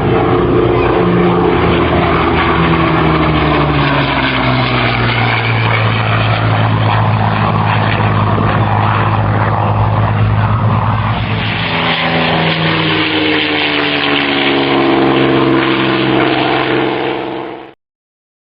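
Hawker Hurricane's Rolls-Royce Merlin V12 engine and propeller passing overhead in a display. The engine note falls in pitch as it passes, then rises again as it comes back round, and cuts off suddenly near the end.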